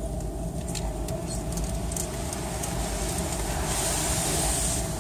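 Automatic car wash heard from inside the car: a steady mechanical hum and rumble, with a louder hiss of water spray against the car from a little before four seconds in to near the end.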